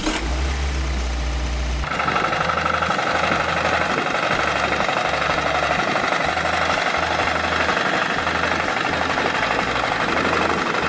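Tractor engine running steadily. A heavy low rumble for about the first two seconds gives way to a steadier running sound with a mid-pitched whine.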